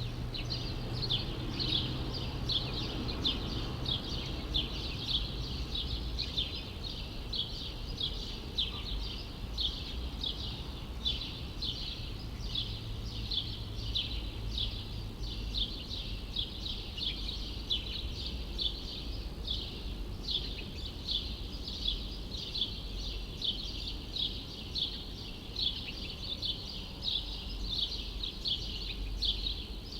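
Small birds chirping without pause, about two short chirps a second, over a low, steady city hum.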